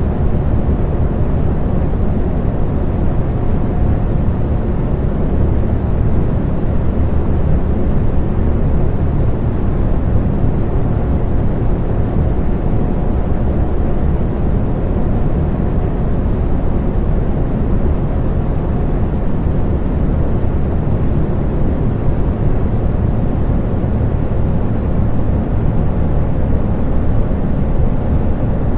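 Electric fan running steadily: a low, even whoosh of moving air with a faint hum of the motor.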